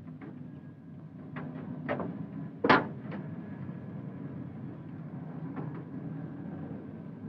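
A steady low mechanical hum, with several sharp knocks and clicks scattered through it, the loudest nearly three seconds in.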